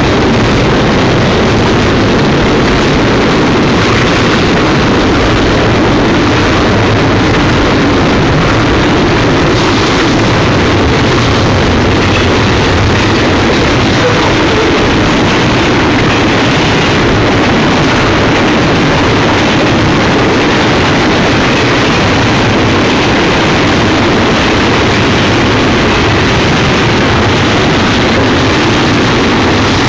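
Double-stack container freight cars rolling past at close range: loud, steady noise of steel wheels on rail.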